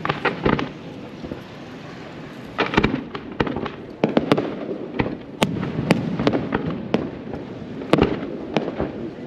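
Fireworks display: aerial shells bursting as sharp bangs. A cluster comes in the first half-second, then a short lull, then the bangs come thick and fast, several a second, from about two and a half seconds in.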